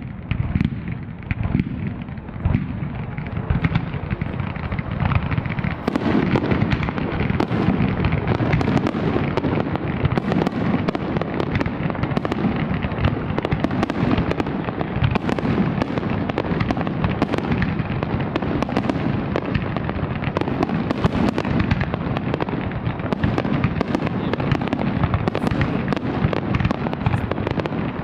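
Large fireworks display firing a dense, continuous barrage of bangs and crackles over a deep rumble. The barrage thickens and gets louder about six seconds in.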